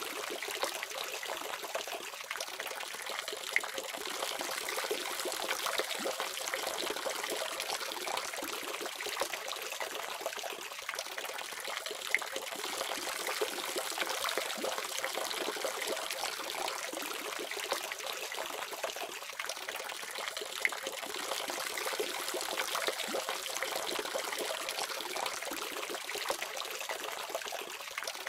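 Water running steadily from a faucet, splashing with small irregular spatters.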